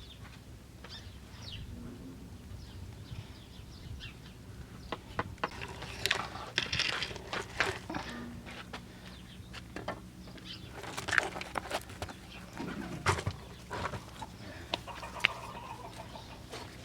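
Chickens clucking, with scattered short clicks and knocks.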